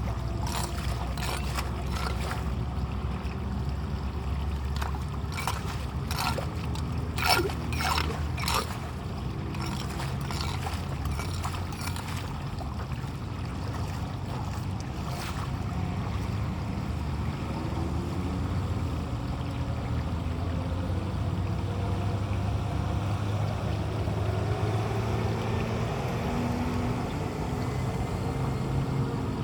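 Steady rumble of heavy rain and running floodwater, with a run of sharp knocks and scrapes in the first twelve seconds, loudest about seven to nine seconds in.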